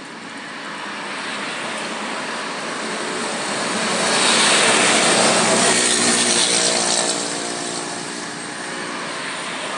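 A passing engine: a rushing noise with a steady drone swells to its loudest about halfway through, then fades.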